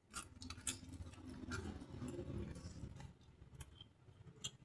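Quiet eating sounds: soft chewing with scattered small clicks and crackles.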